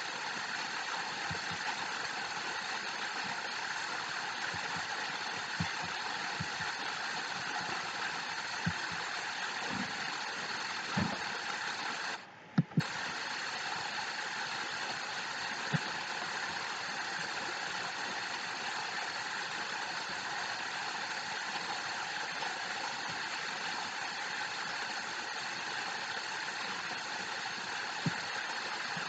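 Waterfall: a steady rush of falling water. About twelve seconds in, the sound drops out for half a second between two sharp clicks.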